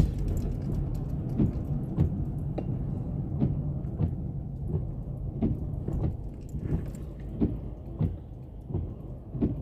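Car road noise heard from inside the cabin while driving: a steady low rumble with frequent light, irregular knocks and clicks, easing off a little near the end.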